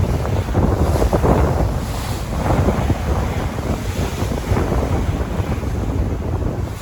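Sea waves washing and surging, with wind buffeting the microphone as a low rumble.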